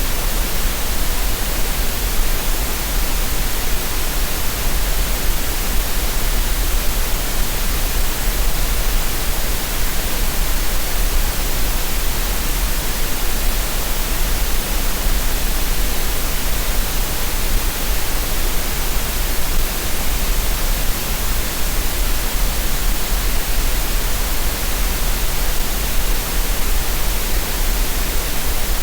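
Green noise: a steady, even hiss of synthetic noise with no changes or events.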